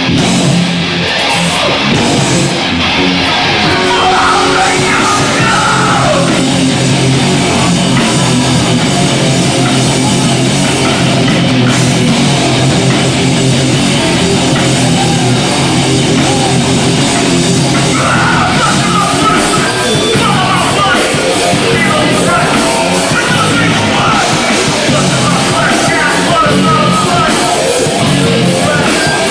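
A hardcore punk band playing live and loud: distorted electric guitar, bass and drums, with yelled vocals in places.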